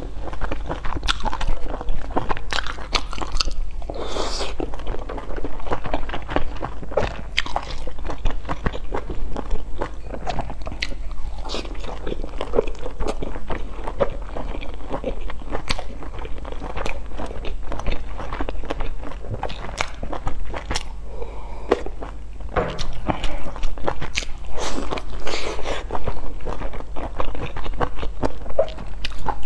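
Close-miked eating of large steamed dumplings: biting and chewing, with many short wet mouth clicks, over a low steady hum.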